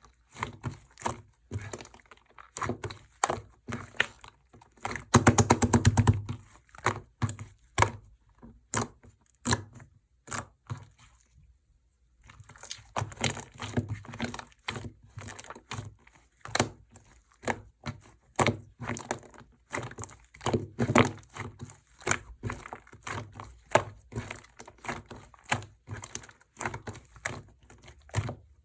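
Clear glitter slime being pressed and worked by hand, giving sharp pops and clicks one after another. There are dense rapid runs of pops about five seconds in and again around twenty seconds, and a short pause near the middle.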